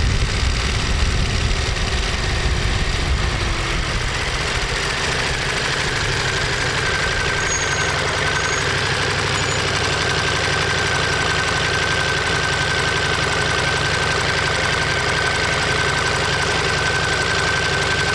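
Ducati Monster 1200S's 1198 cc L-twin engine idling steadily with its uneven low pulse. A thin steady whine joins about five seconds in.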